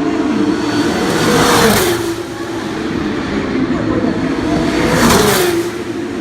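Formula 2 cars' turbocharged V6 engines running at speed, with two cars passing close by: one about a second and a half in and another about five seconds in. Each pass gets louder, then the engine pitch drops as the car goes away. Other engines on the circuit are heard between the passes.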